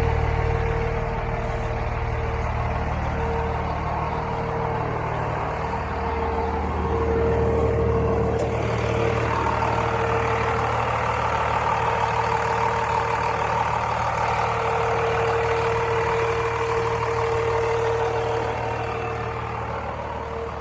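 24-valve Cummins 5.9 inline-six turbo-diesel running steadily, a low engine drone with a steady whine over it. It is running strong on a freshly rebuilt fuel system with new injectors and lift pump.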